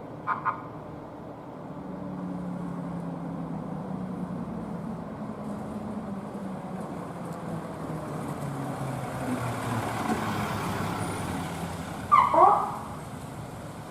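An emergency vehicle's heavy engine running as it drives past, with two short horn toots at the start. The engine rises to its loudest around ten seconds in, and a short loud siren chirp sounds near the end.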